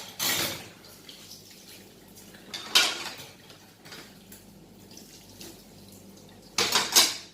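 A plate being washed by hand at a sink: three short splashes of running water, with faint clinks and drips of crockery in between.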